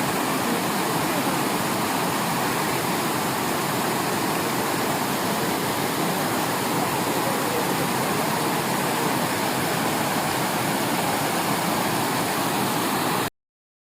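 A waterfall's steady rushing, which cuts off abruptly near the end.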